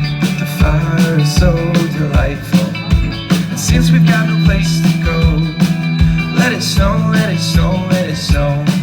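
Live pop band playing a Christmas song, with a steady drum beat, bass and guitar.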